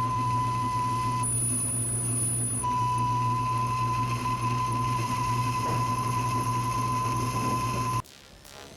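South Bend 9-inch lathe running during a boring cut, a steady low hum with a steady high whine over it. The sound cuts off suddenly near the end.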